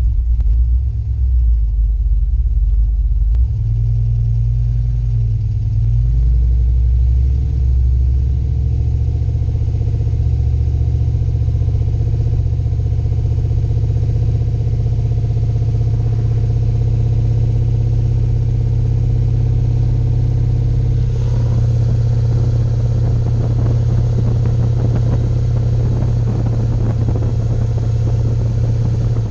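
Turbocharged pickup truck engine and drivetrain droning while the truck is driven at cruise. The low engine note steps in pitch a few times, about 4 and 6 seconds in and again near the 21-second mark.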